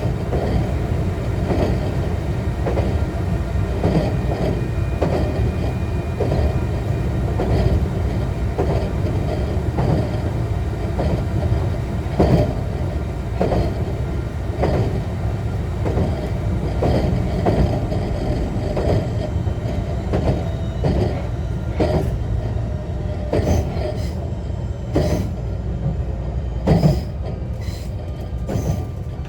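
JR West 125 series electric railcar running at speed, heard from inside the car: a steady low rumble of wheels on rail, with the wheels clicking over rail joints in quick pairs every second or so.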